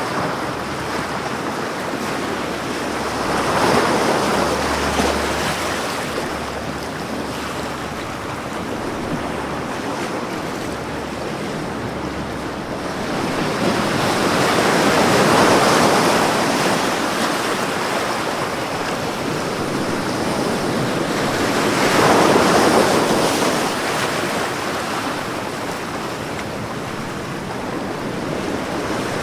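Ocean waves washing onto a beach in a continuous rush of surf, swelling louder three times as larger waves break.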